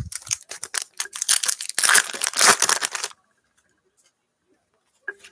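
Trading-card pack wrapper being torn open and crinkled, a dense crackling tear that is loudest about two seconds in and stops after about three seconds.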